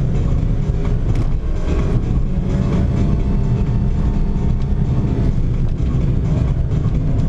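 Car engine and road noise heard from inside the cabin while driving, a steady low rumble. For a few seconds in the middle a humming engine tone stands out above it, then fades.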